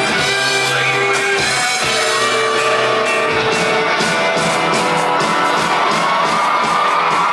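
Live rock band playing an instrumental passage with guitar, no singing.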